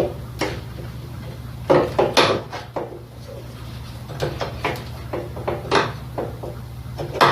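Pliers and small metal engine parts clicking and clanking irregularly while a fuel line is being worked back onto a small mower engine's carburetor, with a cluster of sharp clanks about two seconds in and another near six seconds.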